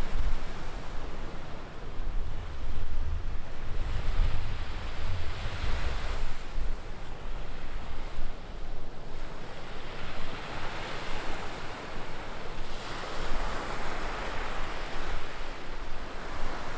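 Ocean surf breaking and washing up the shore, swelling every few seconds. Wind buffets the microphone, heaviest in the first several seconds.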